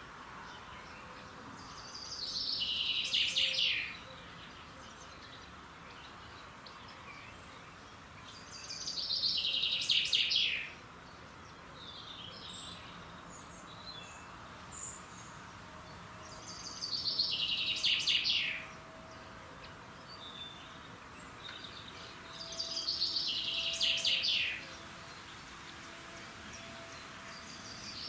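A songbird singing the same fast, descending trilled phrase over and over, each phrase about two seconds long and coming roughly every six to seven seconds, over a faint steady outdoor hiss.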